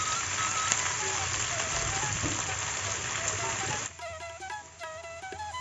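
Sliced onions sizzling in hot oil in a pan, a dense steady hiss that cuts off abruptly about four seconds in. A flute melody plays throughout and is left on its own after the hiss stops.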